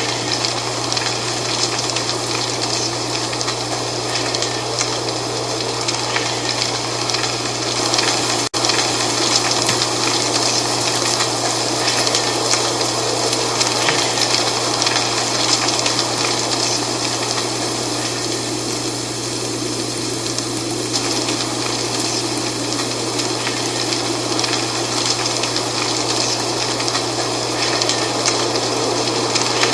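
Wind blowing through trees, with dry fall leaves rustling in a steady, dense rush. A low steady hum sits underneath, and the sound drops out for an instant about eight seconds in.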